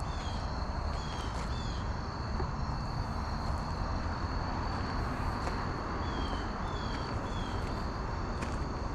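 Outdoor ambience: a steady high insect drone, with short descending bird chirps coming in pairs and threes, over a low steady rumble.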